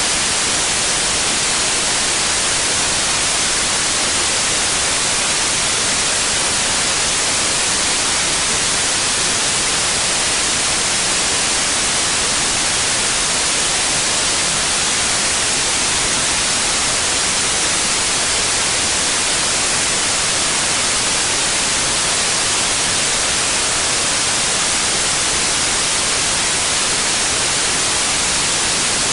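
Steady synthetic white noise: an even, unchanging hiss, strongest in the treble.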